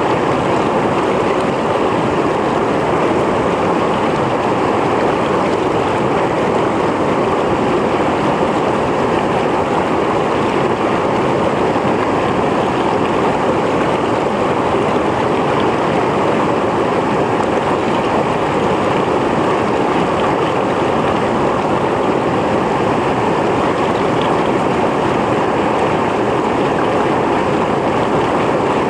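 Mountain stream flowing over rocks: a steady, even rush of water with no change in level.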